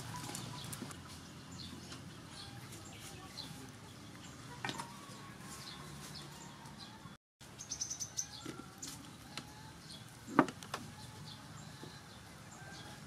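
Small birds chirping, with short scattered calls over faint background ambience. Two sharp clicks are heard, the louder one about three-quarters of the way through. The sound drops out completely for a moment just past the middle.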